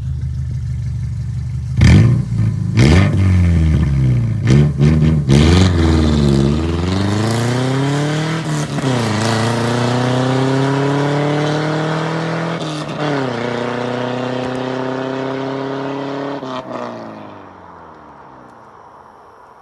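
Subaru Outback Sport's flat-four boxer engine, straight-piped with the catalytic converter and muffler removed, is blipped several times and then accelerates hard through three upshifts. The pitch climbs and drops at each shift, and the sound fades out near the end.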